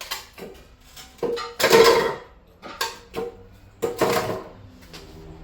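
Metallic clanks and knocks from steel exhaust pipework and tools being handled, a handful of sharp strikes with short ringing, loudest about two seconds in and again around four seconds.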